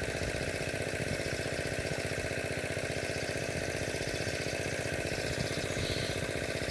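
Engine-driven water pump running steadily with an even, fast chugging beat while it pumps water out of the pond.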